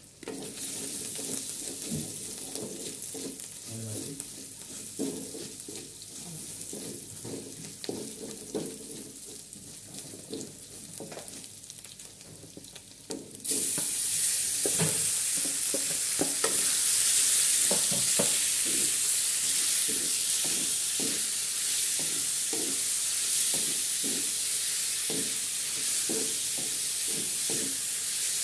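Oil sizzling in an aluminium wok while a wooden spatula stirs and scrapes against the pan. About halfway through, raw pork pieces are tipped in and the sizzling suddenly gets much louder, with the spatula knocking on the wok as it turns the meat.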